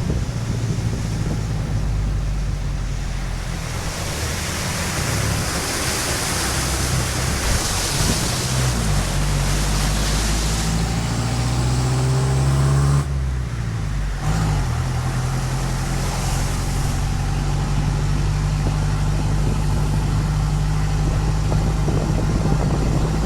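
A car engine running with a steady low hum that shifts in pitch a few times, under the hiss of a rainstorm that swells in the middle and again later. The sound breaks off briefly about 13 seconds in, then the engine hum resumes.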